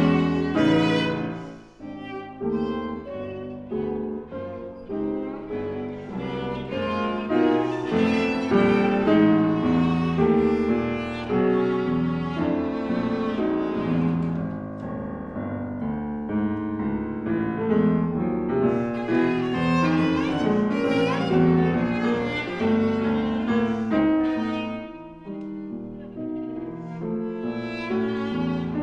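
Viola and piano playing chamber music together, a bowed string line over changing piano chords, with brief quieter moments about a second and a half in and near the end.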